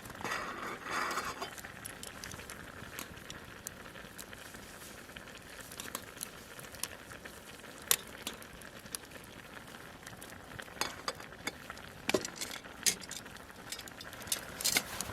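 Food sizzling in a pan, with scattered clicks and taps of a utensil against the pan, and a louder stir or scrape in the first second and a half.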